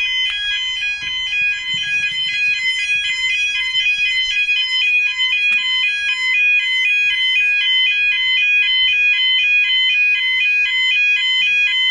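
Railway level crossing warning alarm, a Yodalarm-type sounder, sounding a continuous warble that switches rapidly between two pitches as the crossing closes for an approaching train.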